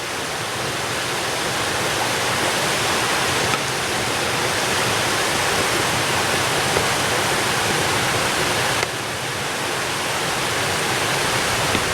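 Waterfall rushing, a steady, really loud wash of falling water.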